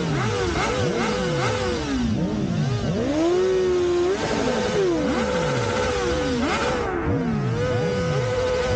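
Several motorcycles revving their engines over and over together, the overlapping engine notes sweeping up and falling back again and again, with one engine held at a steady pitch underneath.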